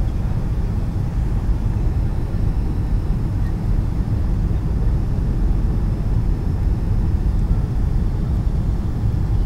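Steady low rumble of engine and airflow noise inside the passenger cabin of a Boeing 757-200 airliner.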